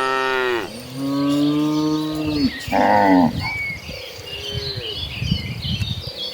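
Cattle mooing. One long moo ends about half a second in, a second long low moo follows, and a short louder call comes about three seconds in. After that it is quieter, with high chirps throughout.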